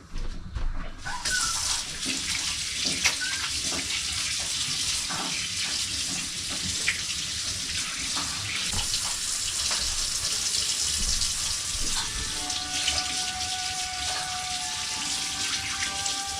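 Steady rush of running water with small clicks and splashes through it. A few steady tones of music come in about twelve seconds in.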